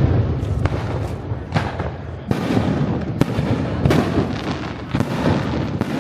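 Fireworks going off in a continuous barrage: a dense rumble of bursts and crackling, with sharp loud bangs about once a second.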